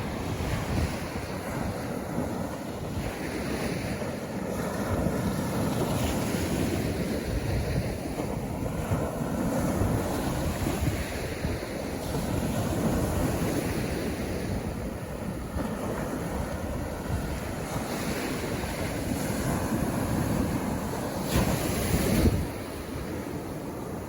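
Sea waves washing onto a beach, a continuous rushing surf that swells and eases, with wind on the microphone. A louder rush comes near the end.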